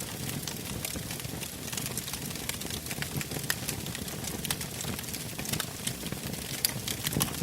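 Wood fire burning in a fireplace, crackling and popping steadily over a low rumble of the flames, with a few louder pops near the end.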